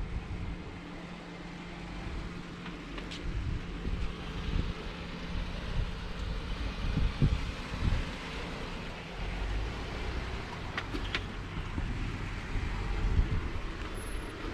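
4x4 vehicle crawling over a rocky off-road trail: a steady engine hum with irregular low bumps and knocks from the rough ground, and some wind noise on the microphone.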